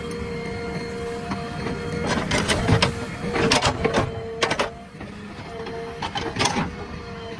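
JCB loader working: a steady engine hum with a constant whine, broken three times by bursts of metallic clanking and rattling.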